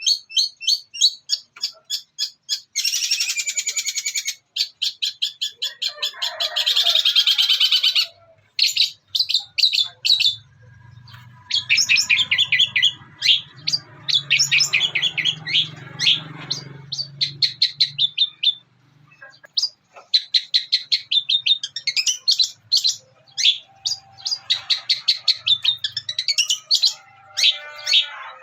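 Long-tailed shrike singing: rapid runs of sharp, high chirps lasting a few seconds each with short breaks between, its mimicry of tree sparrow chatter.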